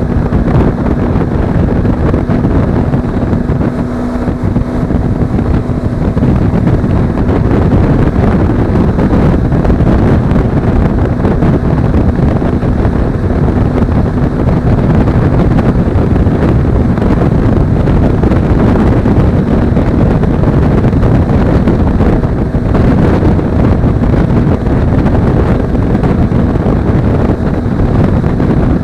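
Heavy wind noise buffeting an action camera's microphone while riding a Suzuki V-Strom 250 motorcycle at road speed, with the engine's steady hum faintly under it.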